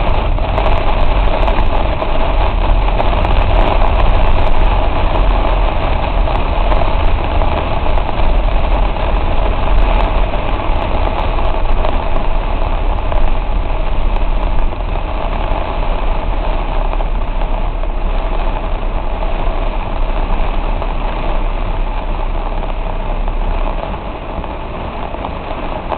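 Heavy rain on a car and its tyres on a wet road, heard from inside the moving car as a loud, steady wash of noise over a low rumble. It eases slightly near the end.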